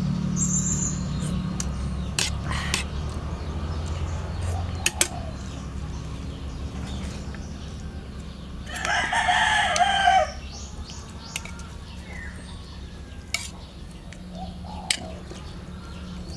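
A rooster crowing once, about nine seconds in, a single call lasting about a second and a half. Scattered sharp clicks and a steady low hum run underneath.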